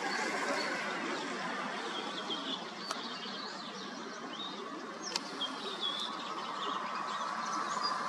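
Many short, high chirps of small songbirds over a steady outdoor hiss, with two sharp clicks about three and five seconds in.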